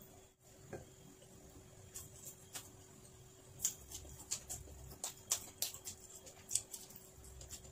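Faint wet mouth clicks and smacks of a person chewing food eaten by hand, sparse at first and coming a few times a second from about two seconds in.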